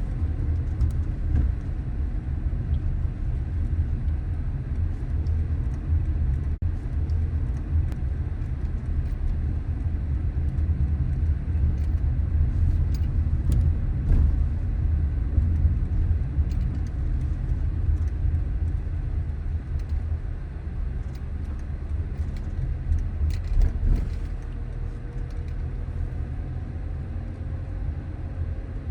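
Car driving on city streets: a steady low rumble of road and engine noise, with scattered faint ticks and clicks, easing slightly near the end.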